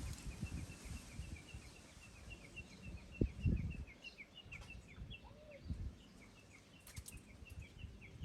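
Outdoor ambience: a steady series of short, slightly falling high chirps, about three a second, over low gusty rumble on the microphone.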